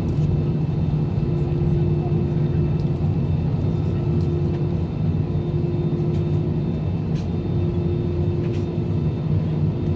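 Steady cabin noise inside an Airbus A320-200: a low rumble with a constant hum over it and a few faint clicks.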